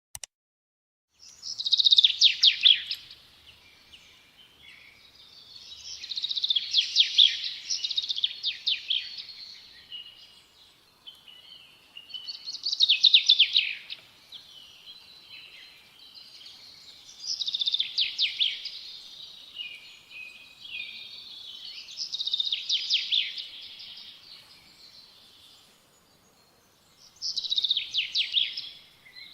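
A songbird singing the same short song over and over, about every four to five seconds. Each song is a fast run of high notes that trails off into a few softer notes.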